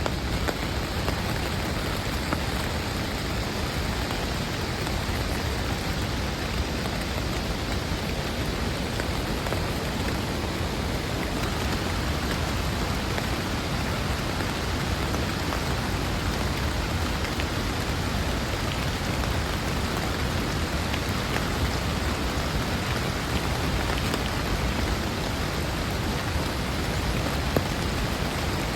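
Heavy rain falling steadily, with scattered individual drop hits.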